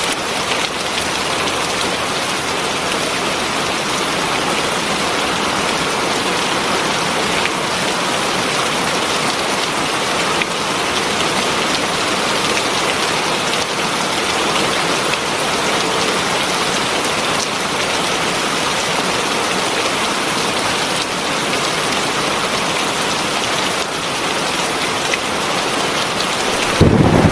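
Heavy rain falling steadily, a dense even hiss of drops on surfaces. A low rumble of thunder starts near the end.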